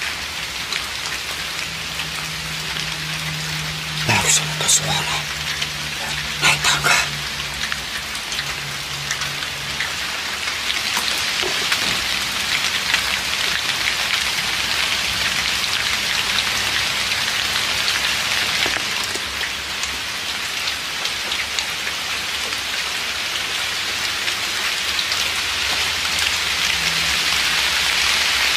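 Steady drizzling rain pattering down, getting a little heavier near the end, with a few sharp knocks around four and seven seconds in.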